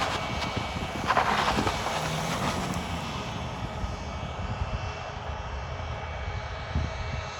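Bombardier Global 8000 business jet's GE Passport turbofans running at taxi power: a steady rumble with a thin high whine, and a brief louder rush about a second in.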